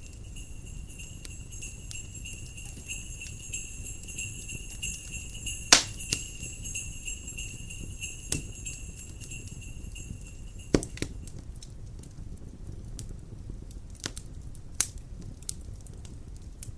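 Jingle bells ringing steadily, stopping about two-thirds of the way in, over a crackling wood fire with scattered sharp pops; the two loudest pops come about a third and two-thirds of the way in.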